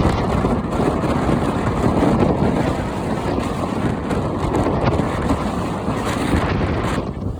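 Storm-force wind buffeting the microphone: a loud, dense, gusting rumble.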